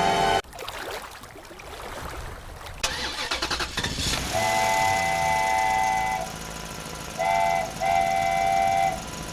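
A vehicle horn sounds a chord of steady tones: one long blast about four seconds in, then a short one and a longer one near the end. Before the blasts there is a stretch of rumbling motor-like noise.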